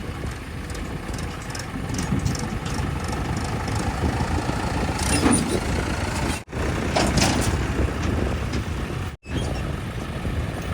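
Diesel engine of heavy machinery (backhoe loader, tractor or truck) running with a steady low rumble, broken by two abrupt cuts. A couple of brief hisses come about halfway through.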